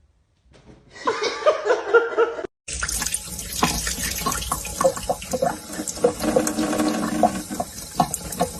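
Running water with splashes and knocks, after a short, separate burst of a wavering pitched sound that cuts off about two and a half seconds in.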